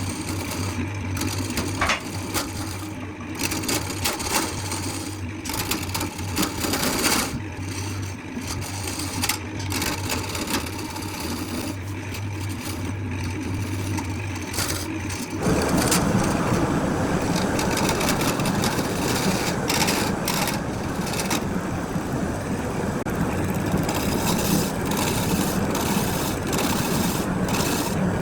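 Workshop machinery running: a steady motor hum with scattered knocks and clicks. About halfway through it cuts abruptly to a louder, rougher steady noise.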